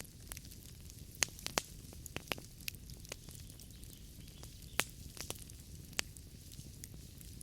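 Wood fire burning in a fireplace, its logs crackling: irregular sharp pops, a few louder than the rest, over a steady low rush of the flames.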